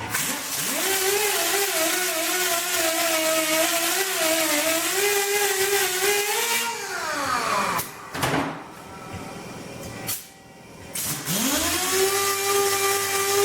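Electric grinder spinning up and running with a whine that wavers under load as stainless steel bolts are ground against it. The whine winds down about seven seconds in, and after a short pause the grinder spins up again about eleven seconds in and runs steadily.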